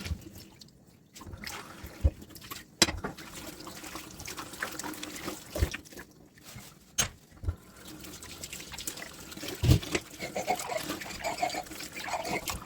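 Dishes washed by hand in a sink: water trickling and splashing, with scattered knocks and clinks of dishware, one louder knock about ten seconds in.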